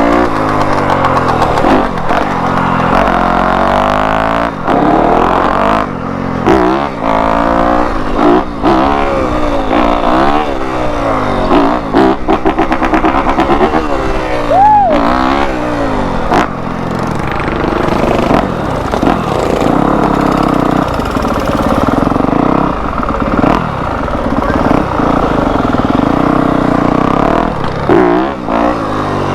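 2021 Yamaha YZ250F's 250 cc single-cylinder four-stroke engine revving up and down as the dirt bike is ridden, its pitch rising and dropping over and over.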